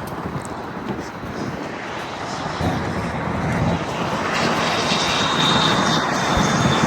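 Steam and sulfur gas hissing and rushing steadily out of a Yellowstone fumarole. It grows louder about four seconds in.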